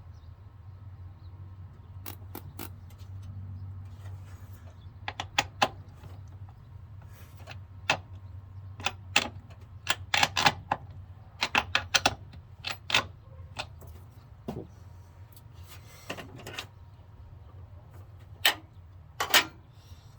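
Irregular sharp clicks and clinks of hand tools and parts being handled during truck wiring work, bunched in short runs, over a steady low hum.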